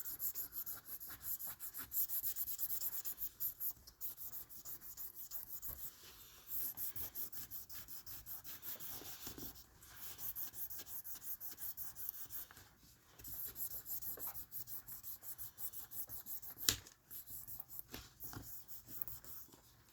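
Fine 3,000-grit sandpaper rubbed by hand over an acrylic watch crystal, in quick back-and-forth strokes about four a second. The strokes come in runs with short pauses, and a sharp click near the end is the loudest sound. This is a fine stage of scratch removal, with the crystal clearing as the grit gets finer.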